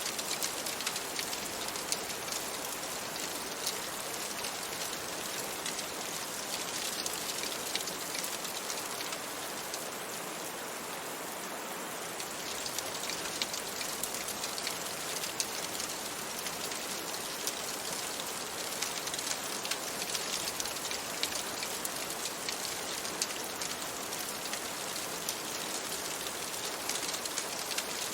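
Steady rain on a window, an even hiss dotted with many small sharp ticks, mixed with the pops of a crackling wood fire.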